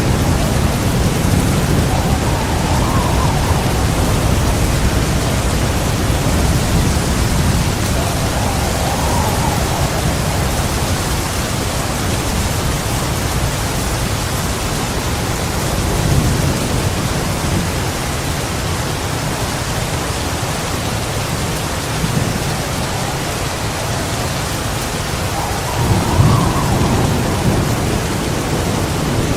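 Heavy rain pouring steadily with rolling thunder rumbling low underneath, swelling several times, and a louder thunderclap about 26 seconds in.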